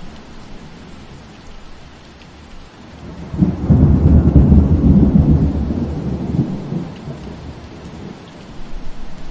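Steady rain falling through trees, with a low rumble of thunder that comes in about three seconds in, lasts around three seconds and fades away.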